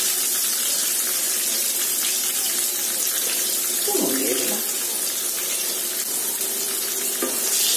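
Halved potatoes frying in hot mustard oil in a wok, a steady hissing sizzle.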